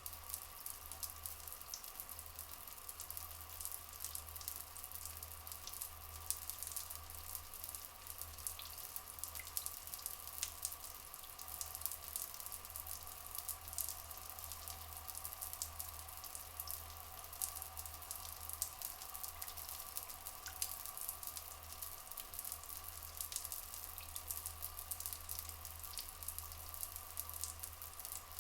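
Steady trickling water with a dense crackle of small drips and splashes, unchanging throughout.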